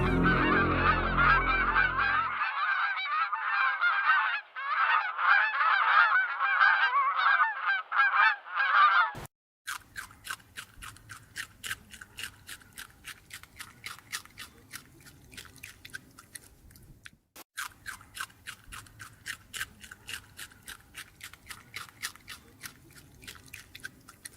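Many animal calls chattering over one another for about nine seconds, then a steady run of short clicks, several a second.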